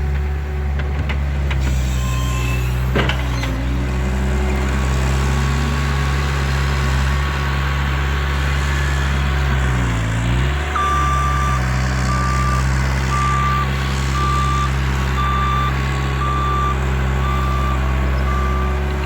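Bobcat loader's engine running steadily, with a sharp knock about three seconds in and a brief dip in engine speed about halfway through. Its reversing alarm then beeps about once a second.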